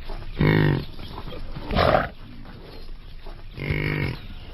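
An animal's voice: two short pitched calls about three seconds apart, with a rougher, noisier call between them.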